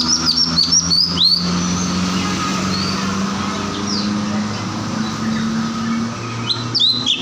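Cucak cungkok songbird chattering in quick runs of short rising whistled notes, one burst during the first second and a half and another near the end, over a steady low engine-like hum.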